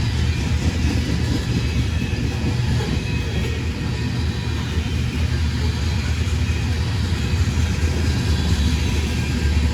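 Steady, loud low rumble of a heavy vehicle running continuously.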